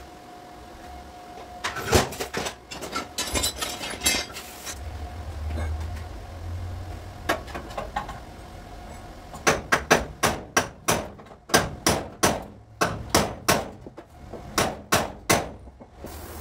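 A hammer striking car body sheet metal. A few scattered blows come in the first seconds, then a steady run of sharp, ringing strikes, two or three a second, through the second half.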